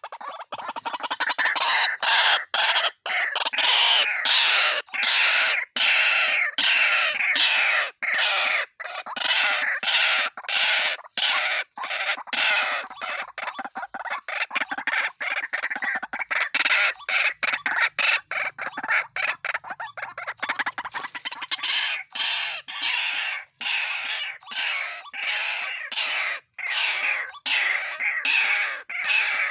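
White-breasted waterhens calling: a loud, continuous run of rapidly repeated calls, broken only by very short gaps.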